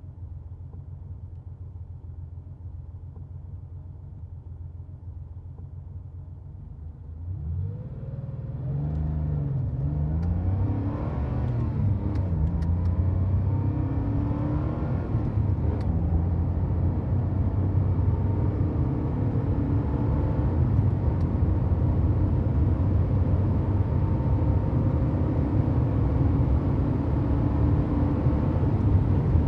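A 1990 Porsche 911's air-cooled flat-six running steadily. About seven seconds in it gets louder, its pitch rising and falling a few times as the revs change, and then it settles into a steady, louder run.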